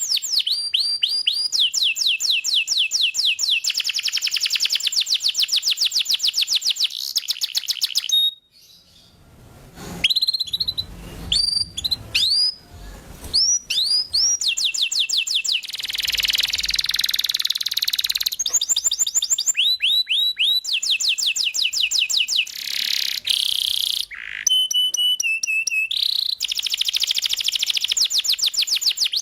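Domestic canary singing a vigorous song of long, rapid trills, repeated notes sweeping up and down, with a brief break about a third of the way in. This is the lively full song used as a tutor recording for young canaries.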